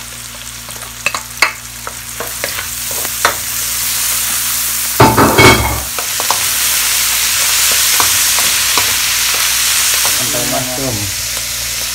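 Garlic and onion sizzling in hot oil in a wok, with a spatula scraping and tapping the pan. About five seconds in, sliced mushrooms go in with a loud clatter, and the sizzling then runs louder and steady.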